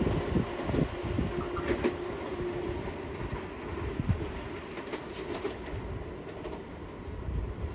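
Long Island Rail Road train running by, its wheels clacking over rail joints over a steady low rumble, with a steady hum for the first few seconds.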